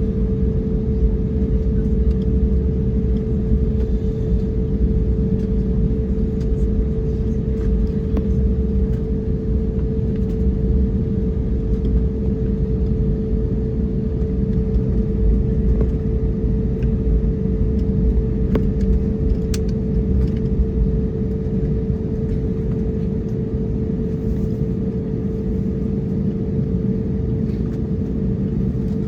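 Airbus A321neo cabin noise: a steady low rumble of the engines and airflow with a constant hum running through it, heard inside the cabin.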